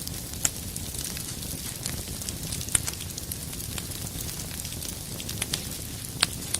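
Wood fire burning in a fireplace: a steady low rumble and hiss with irregular sharp crackles and pops, a few of them louder, about half a second in, near the middle and near the end.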